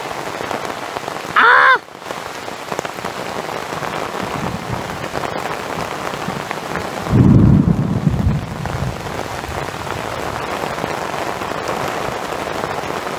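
Torrential rain falling steadily on a military poncho shelter, with a loud low rumble of thunder about seven seconds in that lasts roughly two seconds. A short, high whoop from a man about a second and a half in.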